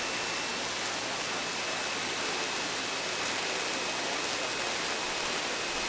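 Steady hiss of the aircraft's intercom and radio audio feed between transmissions, with a faint steady high tone running through it.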